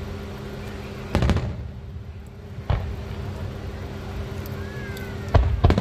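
Aerial firework shells bursting: a loud boom about a second in, a lighter one near three seconds, and two more close together near the end, over a steady low hum.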